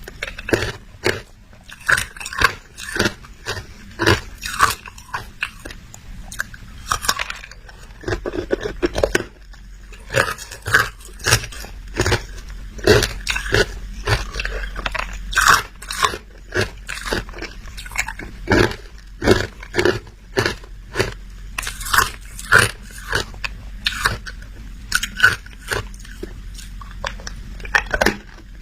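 Hard ice being bitten and chewed close to the microphone: a steady run of sharp, irregular crunches, about one to two a second.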